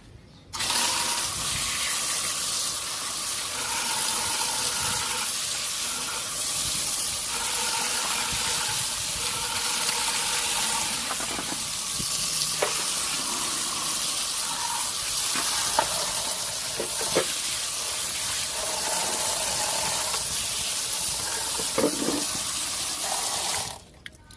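Radio static: a loud, steady hiss from the Sony CFS-515S radio cassette recorder's receiver, with faint wavering tones under it and a few clicks. It switches on abruptly just after the start and cuts off abruptly near the end.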